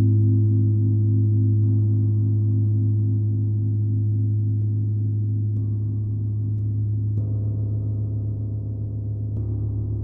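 Deep, sustained gong tone with wavering, beating overtones, slowly fading while fresh soft layers come in a few times.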